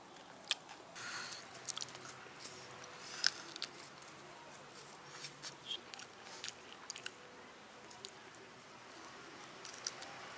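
A person chewing and biting into a spicy deep-fried masala chicken drumstick close to the microphone: irregular sharp crisp clicks and wet chewing, the loudest click about three seconds in.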